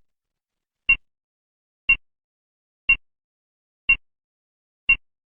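Electronic race-timer beep sounding once a second, short and identical each time, six in all, marking off the seconds of the countdown.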